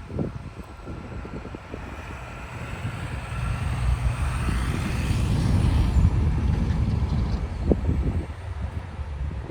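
A vehicle passing by: a low engine rumble that builds to its loudest about halfway through and then fades.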